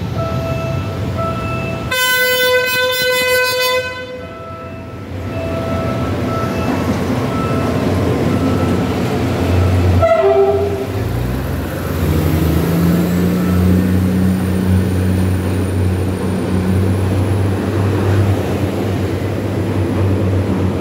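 Philippine National Railways 8000 class diesel multiple unit sounding its horn in one blast of about two seconds, then a short toot about ten seconds in. Its underfloor diesel engine then rises in pitch and settles into a steady drone, with wheel and rail noise, as the cars move past close by.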